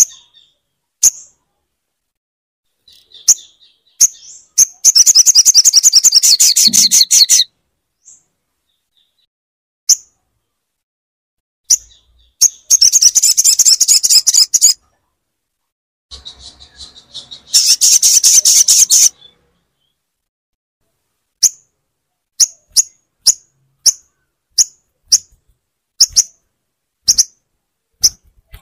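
Sogon bird calls: sharp, high single chips broken by three loud, rapid chattering trills of about two seconds each, then a steady series of chips a little more than half a second apart near the end.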